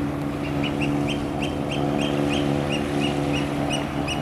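A bird calling in a quick series of short, high notes, about three a second, over the steady hum of a distant engine, most likely a motorboat out on the harbour.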